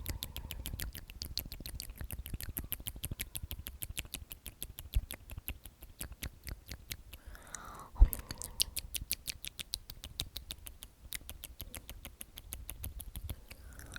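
Close-miked ASMR mouth sounds: a fast, even run of small wet mouth clicks, with one louder click about eight seconds in.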